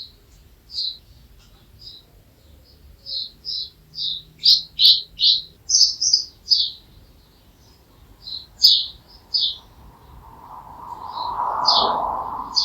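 Small songbird chirping: short high notes repeated in irregular runs, several a second. Near the end, a broad rushing sound swells up and fades.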